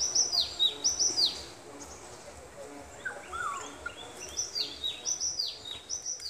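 Village birds chirping: rapid series of high, down-slurred chirps in two bursts, one at the start and one about four seconds in, with a few lower calls in between.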